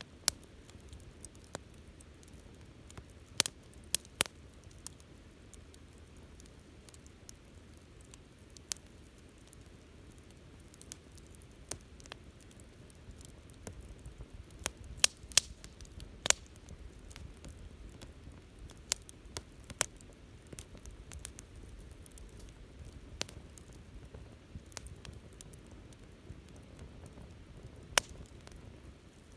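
Wood campfire crackling, with scattered sharp pops over a faint steady hiss of burning.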